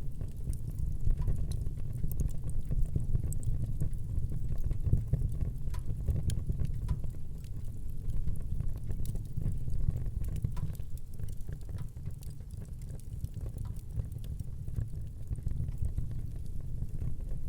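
Wood fire burning in a fireplace: a steady low rumble of flames with many small, scattered crackles and pops.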